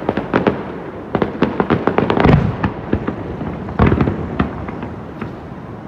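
Fireworks going off in quick volleys of sharp bangs and crackling. There is a dense run of bangs with a deep boom in the middle, and another volley about two-thirds of the way through.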